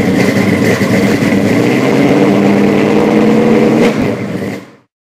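Loud motor vehicle engine running, with a steady high whine over it, fading out quickly near the end.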